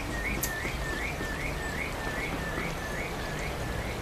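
A bird repeating a short rising chirp, about two or three times a second, over a steady background hiss, with one sharp tick about half a second in.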